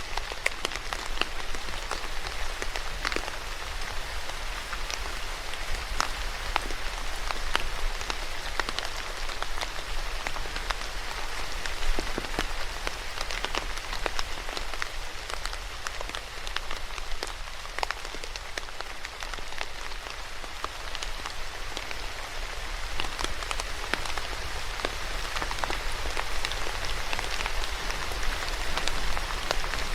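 Steady rain falling on a surface, a constant hiss with many sharp individual drop ticks scattered through it.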